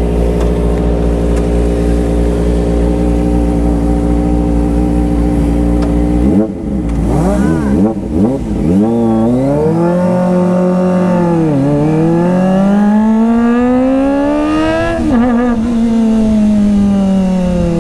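Kawasaki ZX-25R's 249 cc inline-four running steadily, then about six seconds in the motorcycle pulls away and accelerates. The engine note climbs, drops at a gear change, climbs again, then falls away as the throttle eases near the end.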